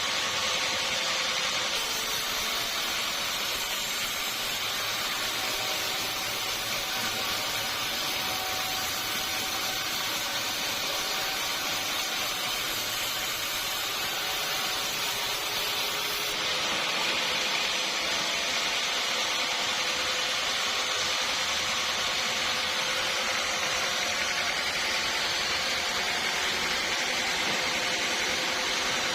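Sawmill saw running steadily, a continuous mechanical hiss with a faint whine.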